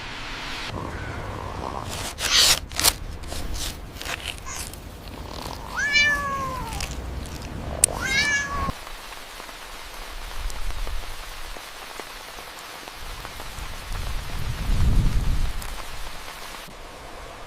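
A cat meowing twice, about two seconds apart, after a few sharp clicks or knocks; a low rumble comes up near the end.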